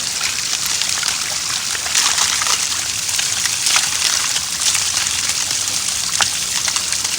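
Rainwater runoff flowing and trickling over small rocks, with occasional sharper splashes.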